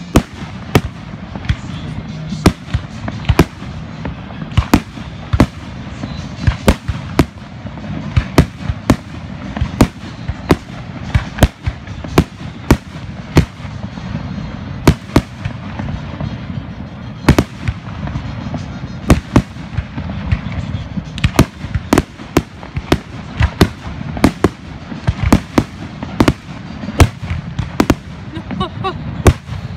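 Fireworks going off in quick succession: sharp bangs about every second or so, some close together, over a continuous low rumble and crackle.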